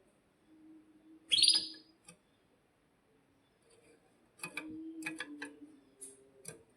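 Domestic canary calling: one loud rising chirp a little over a second in, then a quick run of short, sharp notes from about four and a half seconds in.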